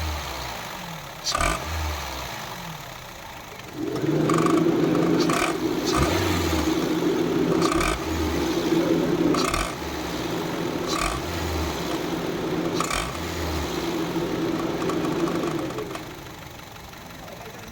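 Honda City i-VTEC petrol engine running with a rattling clatter from its drive-belt system. The sound gets louder about four seconds in and drops back near the end, with a sharp knock every second and a half or so. The clatter comes from a loose, defective drive-belt tensioner, and the mechanic likens it to a diesel engine starting.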